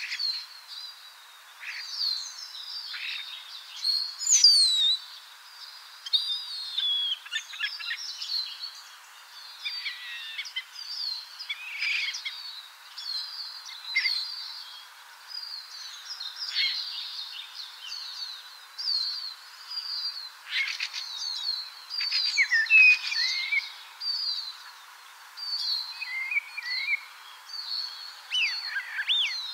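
Recorded birdsong: a dense run of short, high chirps and whistled notes in quick succession, with brief gaps, over a faint steady hiss.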